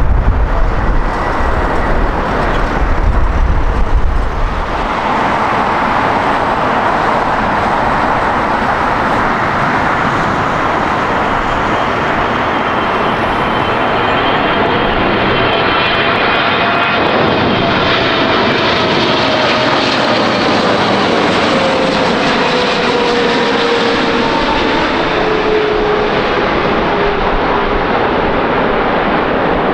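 Jet airliner's engines at close range: a loud, steady roar with whining tones that slowly fall in pitch as the aircraft passes. A heavier low rumble dominates the first few seconds.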